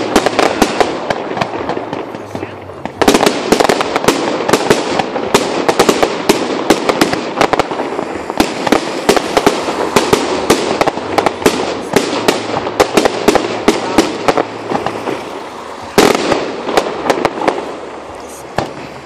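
Aerial fireworks bursting in rapid volleys of crackling pops and bangs. There is a short lull about three seconds in before a new volley, and a single loud bang about sixteen seconds in.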